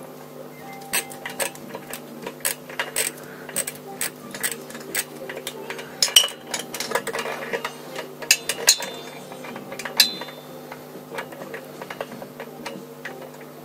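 Irregular metallic clinks, taps and rattles of tools and metal parts being handled, some ringing briefly, over a steady low hum.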